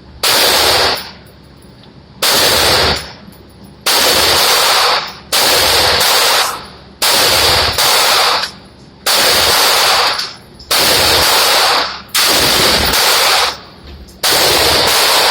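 Repeated bursts of automatic gunfire, about ten bursts each lasting roughly a second, with short pauses between. Every burst is loud enough that it runs flat at the top.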